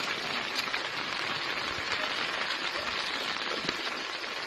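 Steady, even rush of water from fast-flowing floodwater and heavy rain.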